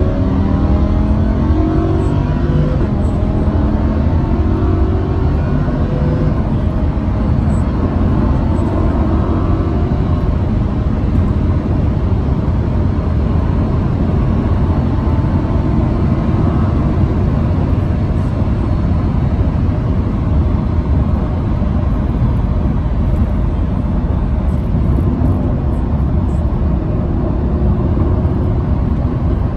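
Lamborghini Huracán's 5.2-litre V10 heard from inside the cabin, revving up under hard acceleration, its pitch rising over the first several seconds. It then settles into a steady, loud drone of engine and road noise at speed.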